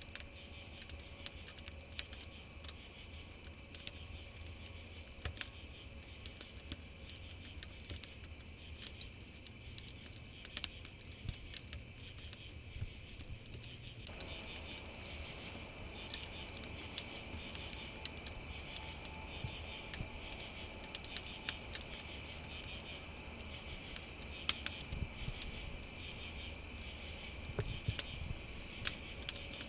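Crickets chirping in a steady high chorus over a crackling campfire, with irregular sharp pops of burning wood, a few of them louder than the rest.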